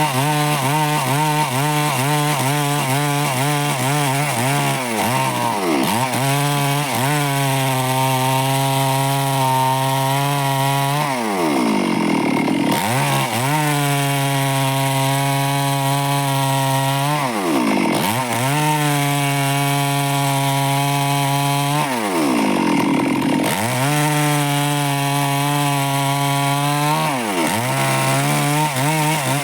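Stihl chainsaw running at high revs while cutting wood. Its engine note sags and recovers several times as the load on the chain changes.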